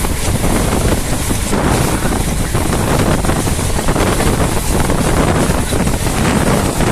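A moving passenger train's running noise, a steady loud rush with wind buffeting the microphone.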